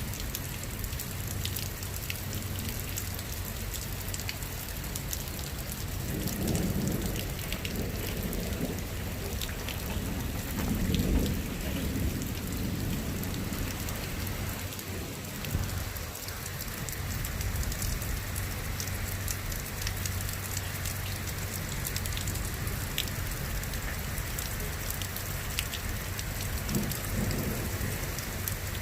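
Steady rain falling, with many close drops ticking on a surface. Thunder rumbles low twice, about six seconds in and more loudly around eleven seconds, and more faintly near the end.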